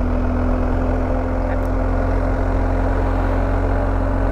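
Motorcycle engine running steadily at low speed, its pitch creeping up slightly.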